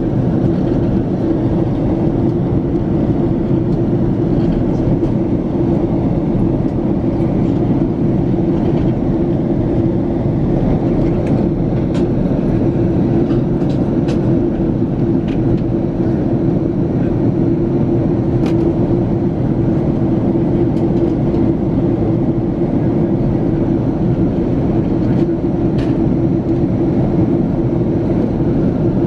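Steady cabin drone of a Boeing 767-400ER in flight, its engines and rushing air making an even, unbroken roar with a hum, and a few faint clicks.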